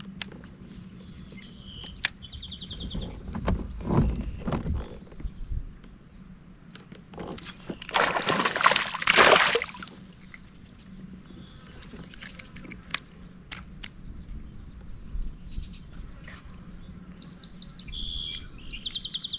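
Birds calling in short trills, about a second in and again near the end, over scattered light clicks and knocks. A loud rushing noise lasts about two seconds near the middle.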